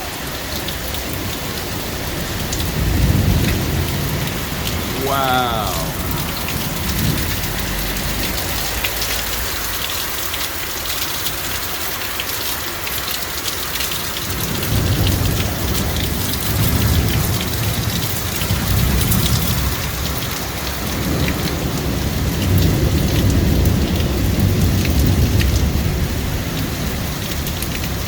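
Thunderstorm: heavy rain falling steadily, with low rolling thunder rumbling about three seconds in and again, longer, through most of the second half.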